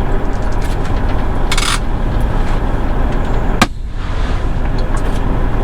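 Semi-truck cab, the diesel engine of a Freightliner Coronado glider running with a steady low rumble as the truck rolls up slowly to stop. A short hiss comes about one and a half seconds in, and a sharp click about three and a half seconds in.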